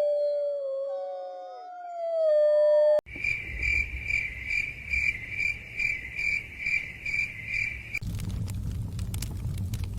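Several wolves howling in long, overlapping gliding notes. About three seconds in, this cuts abruptly to crickets chirping in an even pulse, about two chirps a second. Near the end it cuts again to a wood fire crackling with sharp pops over a low rumble.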